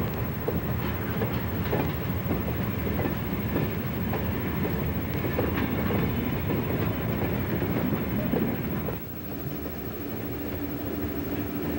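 Passenger train rolling at low speed, heard from aboard: wheels rumbling and clicking over rail joints. The rumble eases a little about nine seconds in, and a steady tone comes in near the end.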